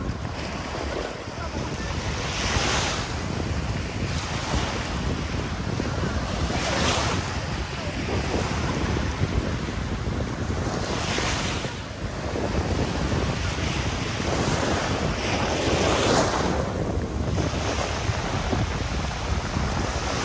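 Waves breaking and washing up a sandy beach, surging in a hissing swell about every four to five seconds, with wind rumbling on the microphone.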